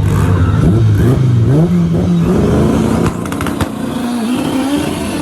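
Turbocharged four-cylinder Honda K-series engine in a front-wheel-drive Civic coupé accelerating hard, its pitch climbing in stages with a short dip along the way. A cluster of sharp cracks comes about three seconds in.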